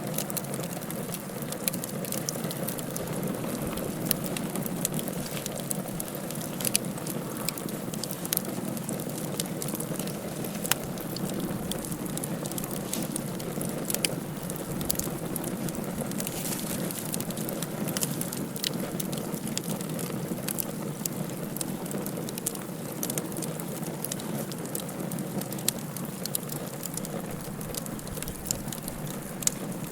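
Wood fire burning in a fireplace, with frequent irregular sharp crackles and pops over a steady low rushing noise.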